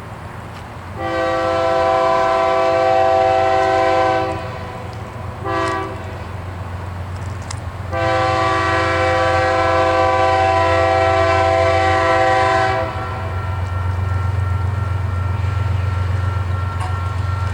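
BNSF freight locomotive's multi-chime air horn sounding a long blast, a brief short toot, then another long blast. A steady low rumble from the diesel locomotive runs underneath.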